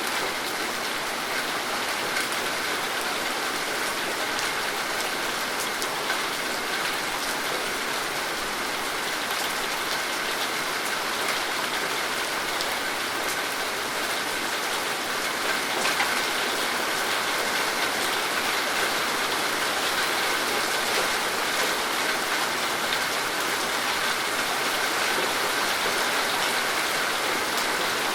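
Steady rain falling, a dense patter of many individual drops hitting a surface.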